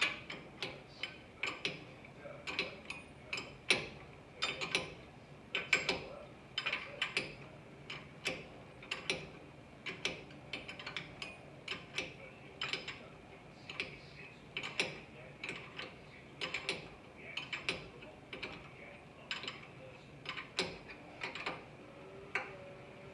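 Hand ratchet wrench clicking in short, uneven strokes, about one or two a second, run down on bolts that are about to be torqued.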